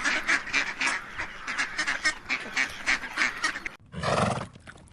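Waterfowl calling over and over, several quacks or honks a second. About four seconds in, after a sudden cut, comes a single louder, deeper animal call.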